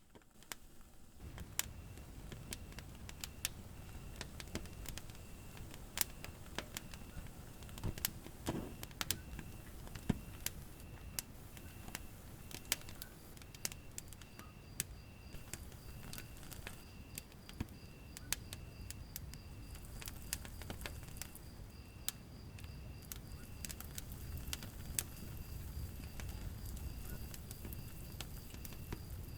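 Fire burning in a fireplace, crackling with irregular sharp pops over a steady low rumble of the flames. A faint high chirp repeats evenly underneath.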